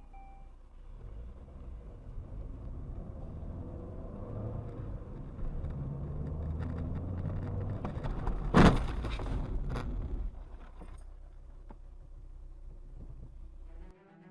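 A car's engine and road rumble building up, then one loud crash impact a little under nine seconds in, followed by a few smaller knocks about a second later as the rumble dies away. A pair of short electronic beeps sounds at the very start.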